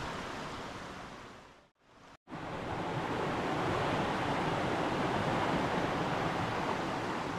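River water running steadily. It cuts out briefly about two seconds in, then picks up again.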